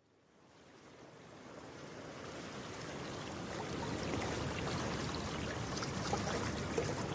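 Rushing water fading in from silence and growing steadily louder, a steady wash with faint crackling ticks.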